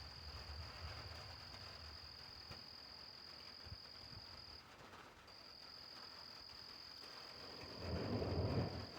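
An insect's steady high trill, pausing briefly about halfway, over a faint hiss of light rain. Near the end a low rumble of thunder swells up.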